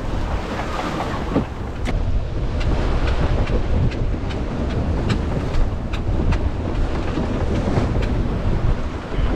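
Strong wind buffeting the microphone aboard a sailboat, with a steady low rumble. Over it, a string of sharp clicks comes at roughly two a second.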